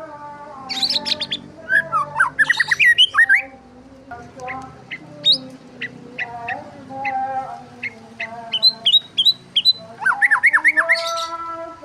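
Small birds chirping and squawking in quick bursts of rapid sharp notes and short downward sweeps, busiest near the start and again near the end, over a steady sustained background tone that slowly shifts pitch.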